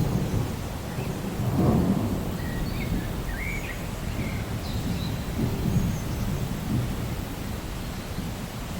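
Rainforest ambience: a low, rolling rumble of distant thunder over steady rain, swelling about two seconds in and again near six seconds, with a few short, high bird chirps.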